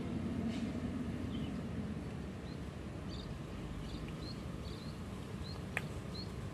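A small bird chirping: short, high, slightly rising notes about twice a second through the second half, over a low steady background rumble. A single sharp click near the end.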